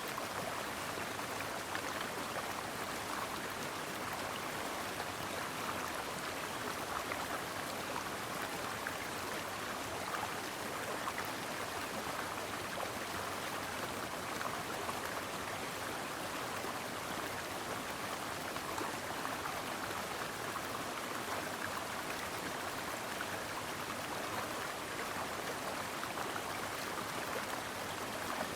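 A brook flowing over rocks: steady, even rushing and babbling of running water with no breaks.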